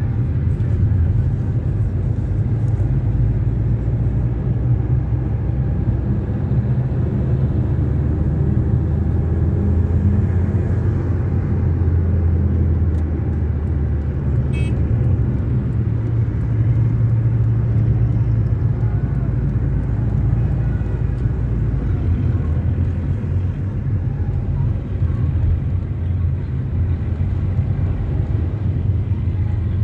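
Steady low rumble of tractor and traffic engines with road noise, the engine hum drifting slightly in pitch.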